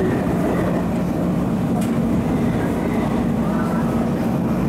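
MTR East Rail MLR electric multiple unit (Metro-Cammell EMU) running under way, heard from inside the passenger car: a steady low motor hum over rumbling wheel and track noise.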